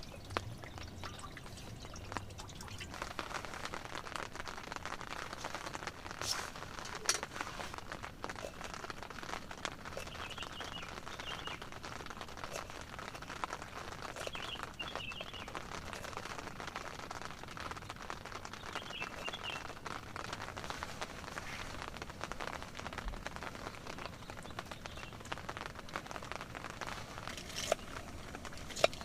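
Rain pattering steadily on a tent, a dense run of small drop hits. Short chirps come through the rain three times, near a third of the way in, about halfway, and about two-thirds in.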